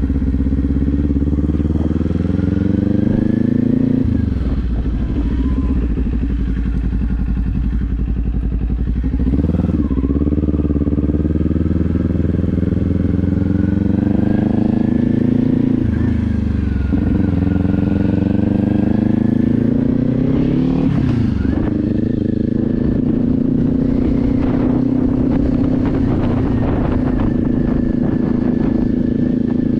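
Kawasaki Z400's parallel-twin engine pulling through the gears: its pitch climbs and drops back at each upshift four times, then holds a steady cruise near the end.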